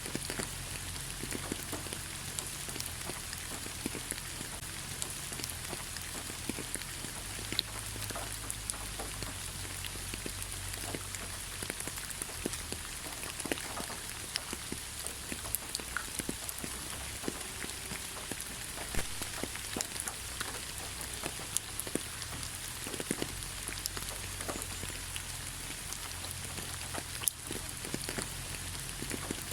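Steady rain falling in a pine forest: an even hiss of rain with many individual drops ticking sharply and irregularly close by, over a faint low rumble.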